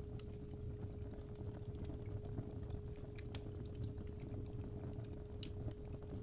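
A steady 417 Hz sine tone over fireplace crackle: a low rumble of burning with irregular sharp pops and snaps from the fire.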